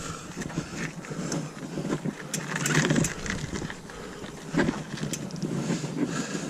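Mountain bike riding down a dirt trail: constant tyre-on-ground noise with frequent irregular rattles and clicks from the bike.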